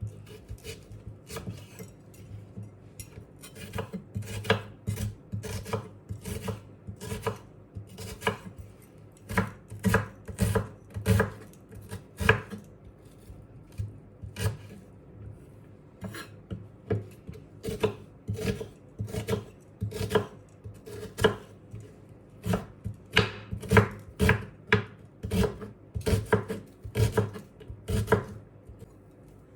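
Knife chopping on a cutting board: a long run of sharp strokes at an uneven pace of about one to two a second.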